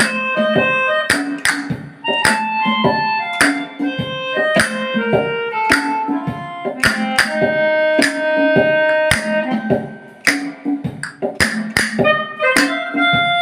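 Instrumental music: a melodica plays a melody of held notes over a backing with frequent percussive hits.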